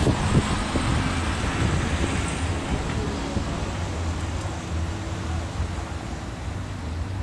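Car engine running at a steady idle.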